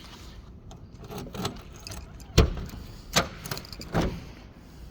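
A few sharp knocks and thumps, the loudest about halfway through, followed by two more less than a second apart, with light handling and key-jangling noise.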